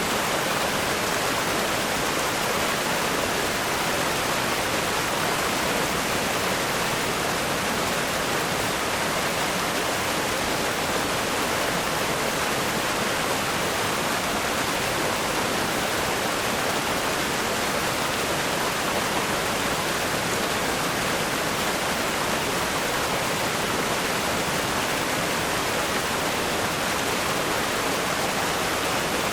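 Strong river flow: rapids rushing over rocks in a steady, dense hiss of water with no breaks.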